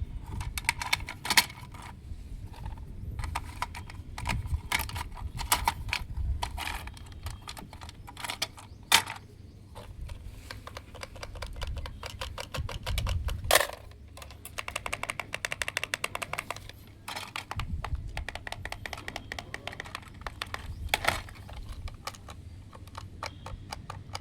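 Irregular clicks, taps and rattles of small hard objects being handled, with a quick run of rapid ticking about two-thirds of the way through.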